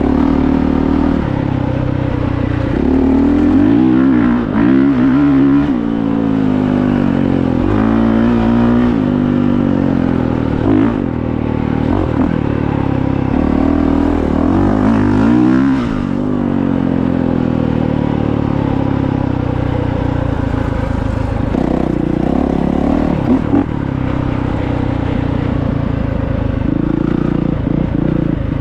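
Honda CRF450R dirt bike's single-cylinder four-stroke engine being ridden hard, its pitch rising and falling over and over with throttle and gear changes in the first half, steadier for a few seconds past the middle, then revving up again twice near the end.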